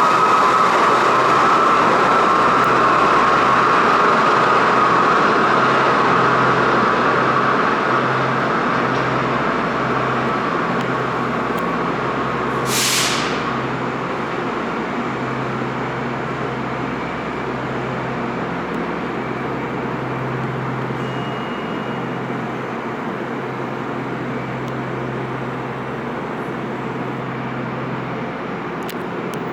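R68 subway train running on the rails as it pulls out of the station: a steady rumble that slowly fades as it moves away. A high steady tone in the first several seconds dies away, and a short hiss comes about thirteen seconds in.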